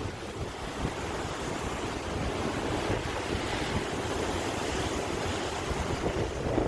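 Sea waves washing onto the shore in a steady rush of surf, with a louder surge near the end.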